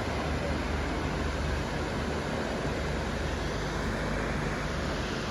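Steady rushing roar of a waterfall in the gorge, with a low droning flutter underneath from a helicopter flying overhead.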